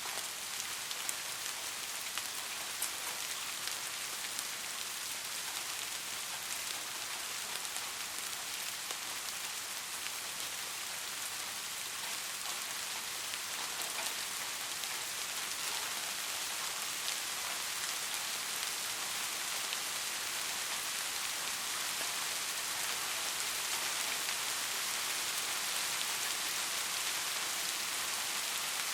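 Steady rain falling on foliage and ground, with a dense hiss and scattered individual drop ticks.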